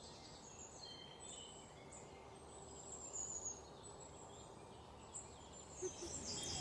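Faint bird calls, short high chirps and whistles, some sliding down in pitch, over a low steady background noise.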